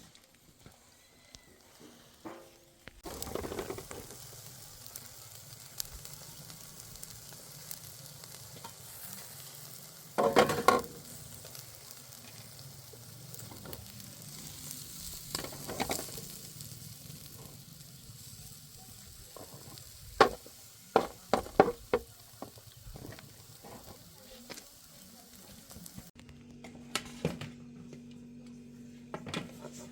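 Food sizzling as it fries in a pan, with a utensil scraping and knocking against the pan now and then as it is stirred. The sizzling cuts off abruptly near the end, giving way to a low steady hum.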